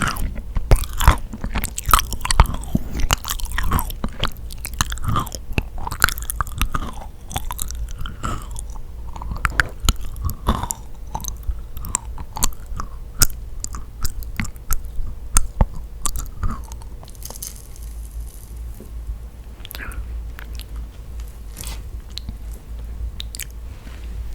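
Close-miked biting and chewing of yakgwa, a sticky honey-soaked Korean fried cookie: irregular sticky, wet clicks and smacks of the mouth. The chewing is dense at first and thins to scattered clicks over the last several seconds.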